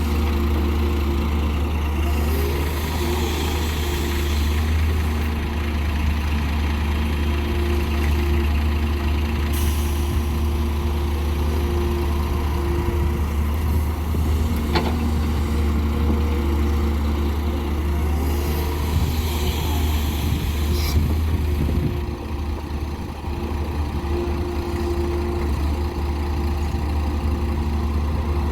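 Heavy diesel engines of an excavator and a dump truck running steadily, a low drone throughout. Two spells of hiss come through, a few seconds in and again about two-thirds of the way through.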